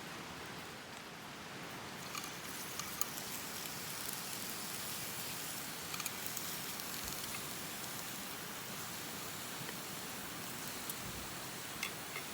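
Steady rush of a gorge stream, with a few short sharp pops from a wood campfire.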